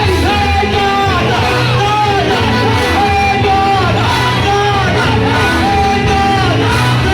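Gospel worship music: a voice singing long held, gliding notes over a band with a steady bass line.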